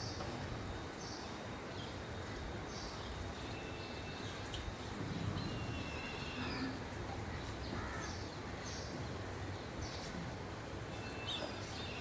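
Birds outdoors giving short high calls about once a second, over steady low background noise.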